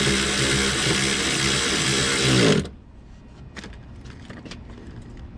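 A handheld power tool's motor runs steadily for a few seconds, its pitch wavering slightly, then cuts off about two and a half seconds in. Faint clinks of tools and parts follow.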